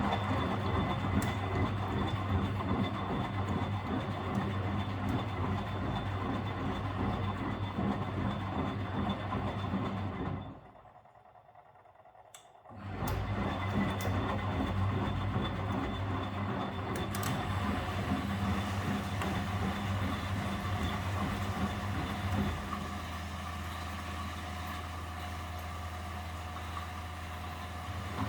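Miele W761 washing machine running its wash cycle, the drum motor humming as it turns the drum. It stops for about two seconds partway through, then starts again. Later it settles to a quieter, steadier hum.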